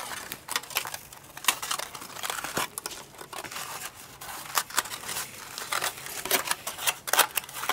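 Aluminium foil crinkling and crackling in irregular clicks as it is pressed by hand into wet glue over textured rope on cardboard.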